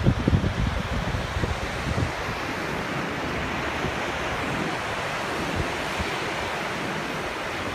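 Ocean surf washing steadily, with wind buffeting the microphone in the first two seconds or so.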